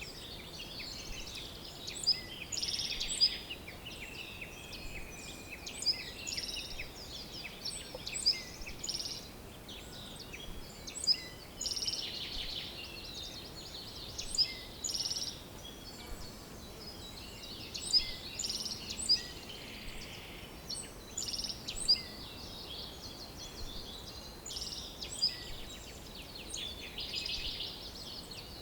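A chorus of small songbirds chirping and trilling, with many short high notes and a sharp, loud call every couple of seconds, over a faint steady background hiss.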